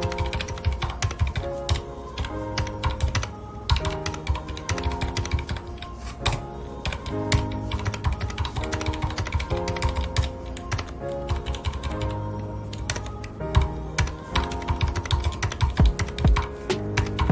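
Fast, irregular typing on a mechanical keyboard with red (linear) switches, the keys clacking continuously over soft background music.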